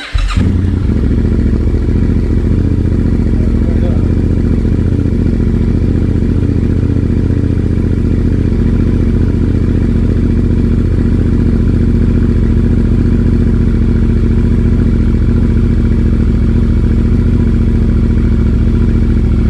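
Yamaha Ténéré 700's 689 cc parallel-twin engine starting and catching at once, then idling steadily through a Yoshimura exhaust. It is the bike's first start after the fuel tank was refitted.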